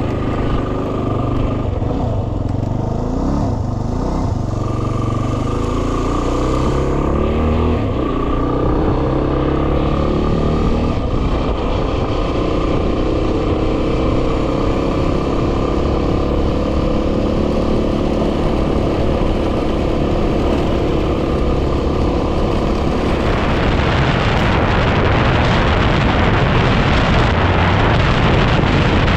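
A 2010 Yamaha WR250R's single-cylinder 250 cc engine running under way, its revs rising and falling through the gears. Near the end, heavy wind noise on the microphone swells up and largely covers the engine.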